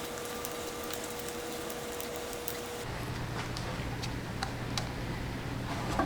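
Faint scattered clicks and ticks over a steady background hum. About three seconds in, the hum changes suddenly from a higher steady tone to a lower one.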